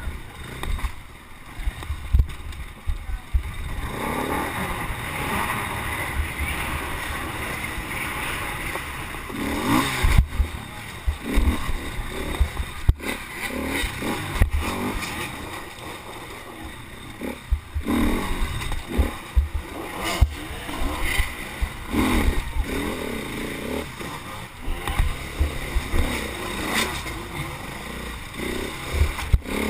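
Jet ski engine running hard under race throttle, its pitch rising and falling, over water rushing past, with frequent irregular low thumps.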